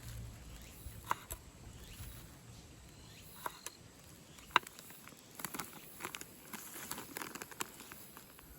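Scattered light taps and clinks of small objects being handled, a few with a short ring; the loudest clink comes about four and a half seconds in.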